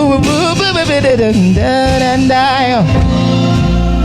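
Man singing a gospel song, drawing out a long, ornamented vocal run over instrumental accompaniment. The voice stops about three seconds in while the accompaniment plays on.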